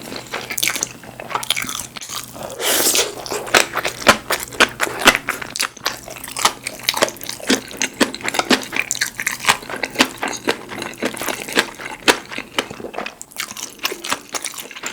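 A person chewing and biting food close to the microphone: a dense run of rapid crunchy, wet clicks, with a longer, louder noisy burst about three seconds in.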